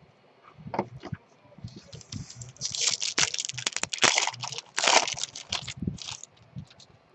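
Plastic-foil wrapper of a baseball card pack being torn open and crinkled. A few light clicks come first, then a dense crackly rustle from about two seconds in to about six seconds in.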